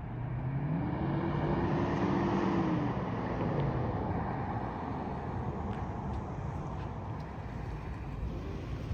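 Lexus GX470's 4.7-litre V8 running through a Magnaflow overland exhaust. The engine note rises over the first couple of seconds, falls back about three seconds in, then settles into a steady run.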